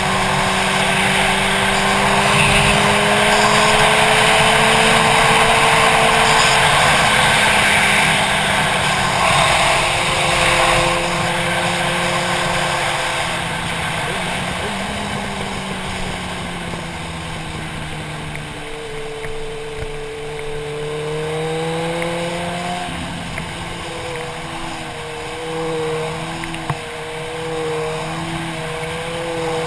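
Motorcycle engine running under way, its pitch slowly rising and falling with the throttle, under heavy wind rush on the helmet-mounted microphone. The wind is loudest in the first third; near the end the engine note wavers up and down.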